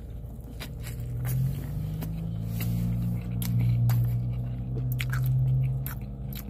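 A person biting into and chewing a taco close to the microphone: wet mouth clicks and smacks, with a low steady hum underneath from about a second in.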